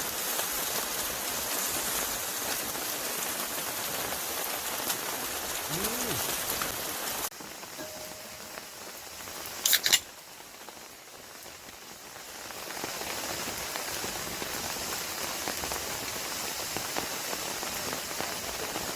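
Steady hiss of rain falling. It drops abruptly about a third of the way in, then comes a sharp double click about halfway through, and the rain sound swells back up again.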